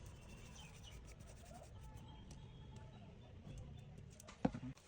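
Faint steady low hum with light handling noise, and one sharp click or tap near the end.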